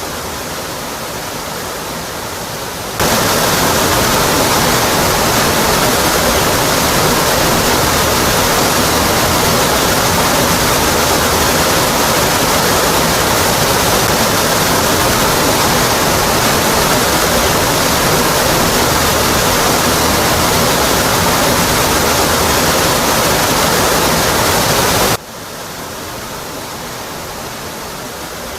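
Steady rushing roar of Rocky Brook Falls, water tumbling down a rock cliff face. It jumps abruptly louder about three seconds in and drops back just as suddenly near the end.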